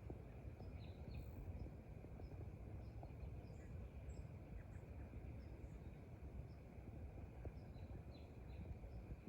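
Faint background ambience: scattered short, high bird chirps over a low rumble, with a thin steady high drone underneath.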